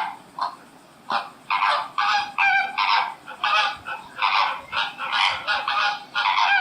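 A bird giving harsh, rasping calls in quick succession, more than a dozen over a few seconds.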